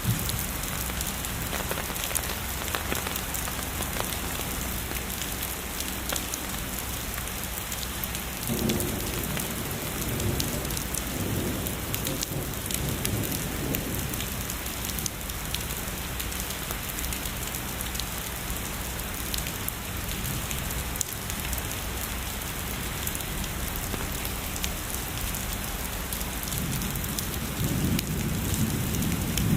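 Steady heavy rainfall with scattered raindrop patter and a few close drop ticks. Distant thunder rumbles low from about nine to fourteen seconds in, and again near the end.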